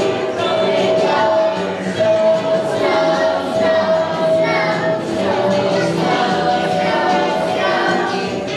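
A young children's choir singing a holiday song together over instrumental accompaniment.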